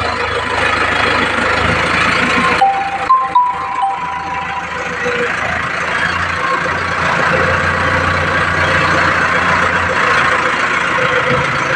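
Mahindra 605 Novo tractor's diesel engine running steadily. A steady whine and a few short knocks come in briefly about three seconds in.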